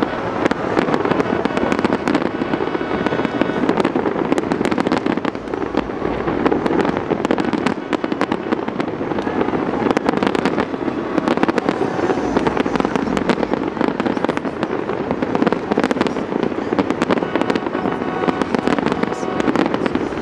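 Fireworks display going off without pause: many rapid, overlapping bangs and crackles over a dense, continuous rumble.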